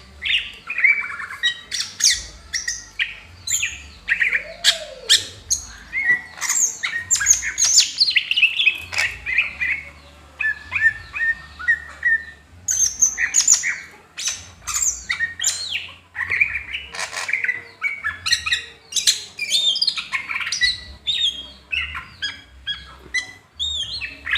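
Greater green leafbird (cucak hijau) singing a fast, varied song of short chirps, squawky notes and quick falling whistles, strung together without pause.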